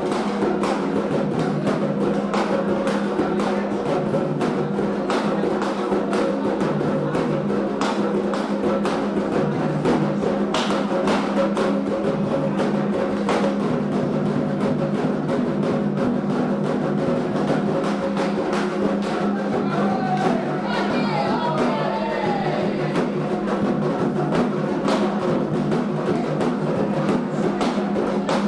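Candomblé ritual music for Xangô: steady, dense drumming over held, sustained voices or tones.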